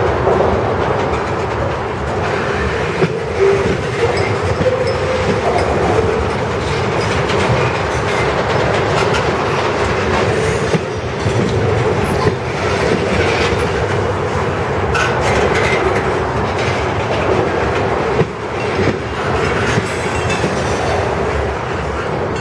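Freight train cars rolling past, with the wheels clacking over rail joints and a steady whine from the wheels on the rails.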